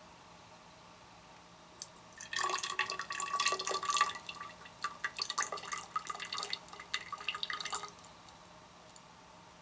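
Water running and dripping into a vessel for about six seconds, starting about two seconds in, with splashy clicks and a ringing tone.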